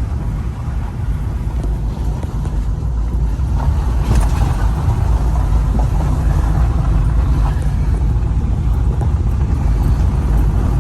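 Vehicle driving along a road, heard from inside the cabin: a steady low rumble of engine and tyres with faint rattles.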